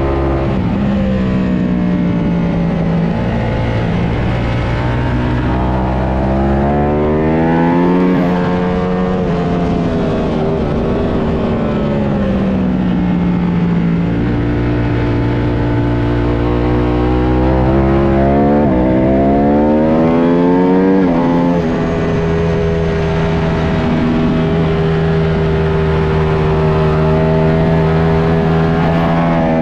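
Ducati Panigale V4S V4 engine at racing speed, climbing in pitch through quick upshifts several times, falling away as it slows for corners, and holding a steady pitch between.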